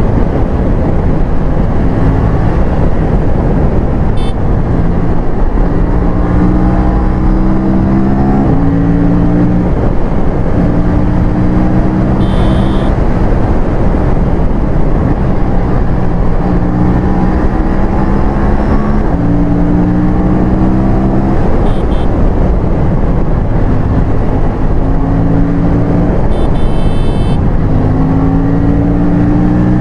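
Aprilia RS 457's parallel-twin engine under hard acceleration, its revs climbing and then dropping back with each upshift, over and over, with heavy wind rush on the microphone.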